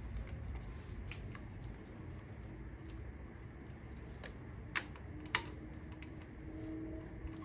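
Scattered light clicks and taps of hand tools and parts being handled in the engine bay, with two sharper clicks about half a second apart in the second half.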